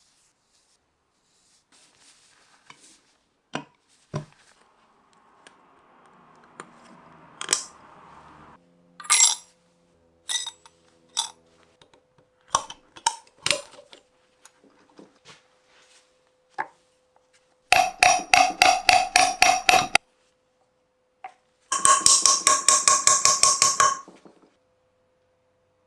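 Metal parts and tools clinking and knocking on a workbench, then two runs of rapid, evenly spaced metallic clicking with a ringing tone, the loudest sounds here, each lasting two to three seconds.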